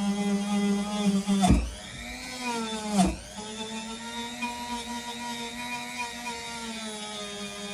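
A Dremel-type rotary tool spinning a polishing attachment against the rusty carbon-steel blade to polish off surface rust. It gives a steady high whine that dips sharply in pitch twice, about one and a half and three seconds in, and recovers each time.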